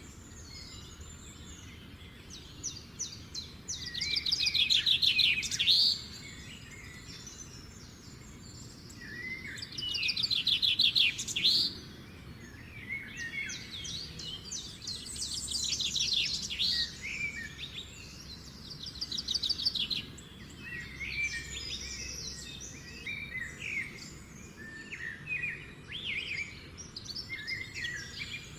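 Garden birds singing in a morning chorus: two loud, fast trilled phrases near the start, then many shorter, varied chirps and song phrases, over a faint steady background.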